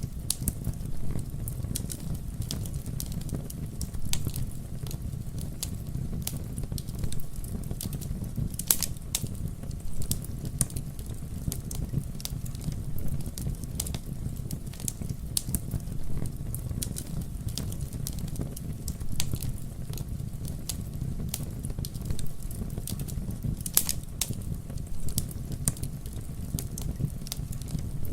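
Wood campfire crackling, with frequent small pops and two louder snaps, one about nine seconds in and one near the end, over a steady low rumble of burning.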